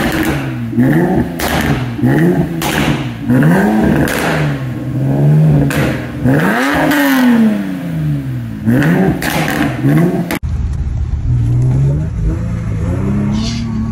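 Infiniti G37 coupe's 3.7-litre V6 being free-revved in quick blips, the pitch rising and falling about once a second. After a cut near ten seconds in, the engine runs at a steadier pitch under way, heard from inside the cabin.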